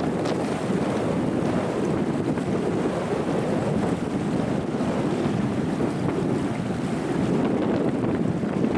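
Strong wind buffeting the microphone in a steady, loud rush, with the surf of the sea beneath it.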